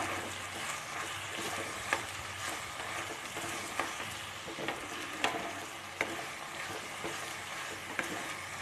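Chopped onions, green chillies, curry leaves and ginger-garlic paste sizzling in hot oil in a kadhai, stirred with a steel spoon. The spoon scrapes and clicks against the pan every second or so.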